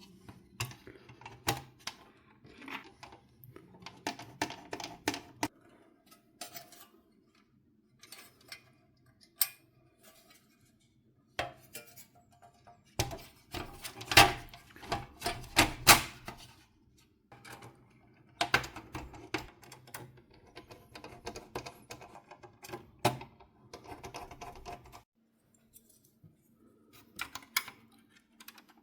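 Irregular clicking and clattering of small hard plastic and metal parts being handled and fitted on a PlayStation 4 console, in bursts with short pauses.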